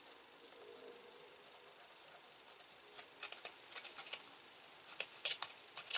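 Sharp pencil point tapping and jabbing through a sheet of paper to mark and punch out screw holes: a quick, irregular run of sharp ticks and taps starting about halfway in.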